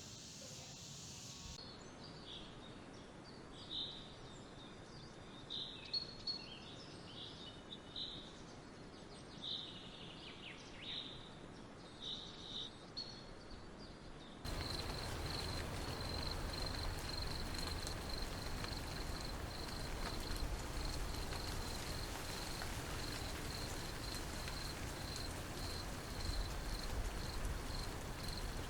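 Scattered short bird-like chirps over quiet outdoor ambience. About halfway through the sound changes abruptly to a continuous high, rapidly pulsing insect trill over a low rumble.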